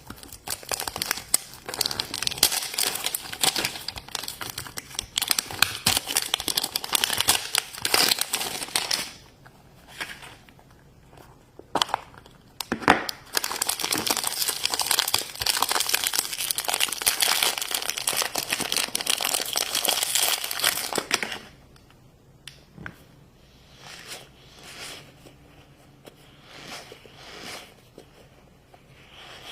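Toy packaging crinkling and tearing as it is opened by hand. There are two long stretches of dense crinkling, about nine seconds each with a short lull between, then only a few faint rustles near the end.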